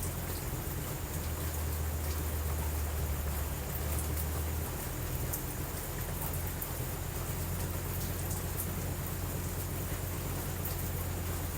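Steady heavy rain, with a continuous low rumble underneath.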